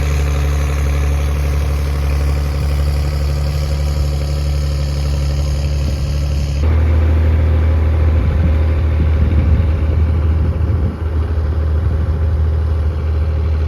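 Tractor engine running steadily under load while pulling a plough through the field. About halfway through the sound changes abruptly, losing its higher hiss and becoming heavier and lower.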